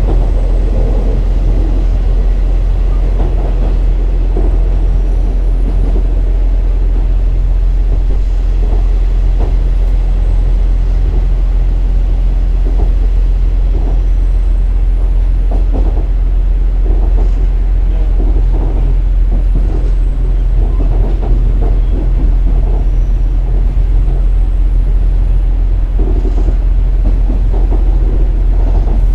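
KiHa 47 diesel railcar under way, heard inside the car: a steady low diesel engine hum with running noise and scattered short knocks from the wheels and rails.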